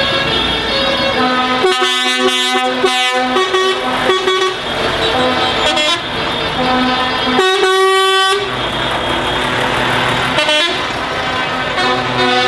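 Trucks sounding their horns as they pass: long horn blasts about two seconds in and again about seven and a half seconds in, with shorter toots between, over steady traffic noise.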